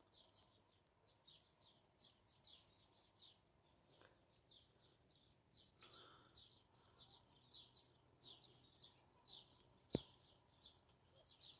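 Faint songbird calling: short high chirps repeating a few times a second. A single sharp click about ten seconds in.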